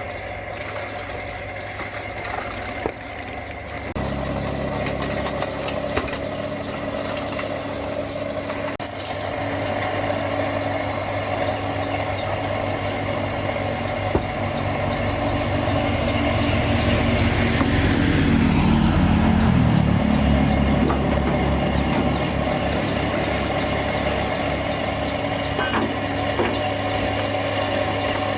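A machine's motor running steadily, kicking in about four seconds in and building up louder around the middle before settling into an even hum.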